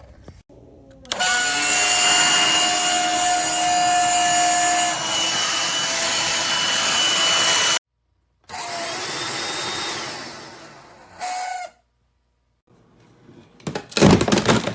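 Black+Decker Dustbuster cordless handheld vacuum switched on: the motor spins up and runs with a steady high whine over a rush of air, then cuts off abruptly. It runs again and winds down, gives one short burst, and near the end there is a loud clatter of knocks.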